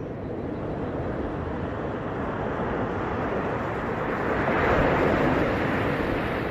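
Ocean surf: waves washing in a steady rush, swelling to a louder break about four to five seconds in, then easing off.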